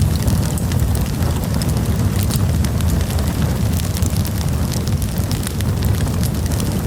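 Wood campfire burning, with a steady low rumble under many quick, sharp crackles and pops.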